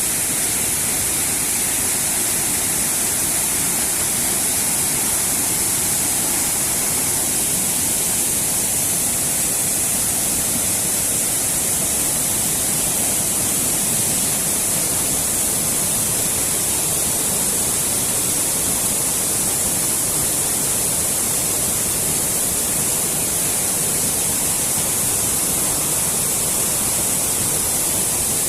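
Waterfall: a steady, unbroken rush of falling water, strongest in its high hiss.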